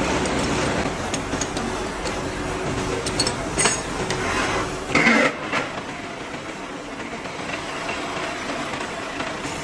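Steady workshop machinery noise with scattered metallic clicks and clanks; the loudest is a ringing clank about five seconds in.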